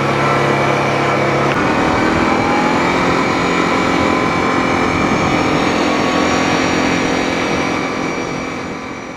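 A motor vehicle engine running steadily. About one and a half seconds in its pitch changes and a tone rises slowly. It fades out near the end.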